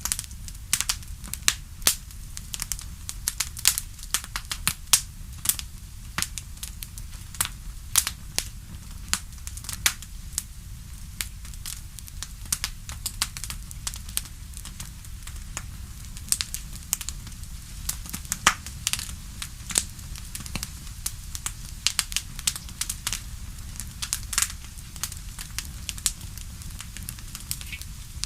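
Fireplace fire crackling, with many sharp irregular pops and snaps over a steady low rumble.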